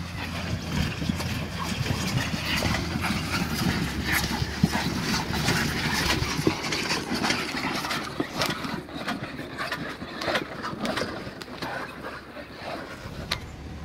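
A vehicle engine running low and steady as it tows a heavy triple-axle boat trailer slowly on three flat tires, with scattered clicks and knocks throughout.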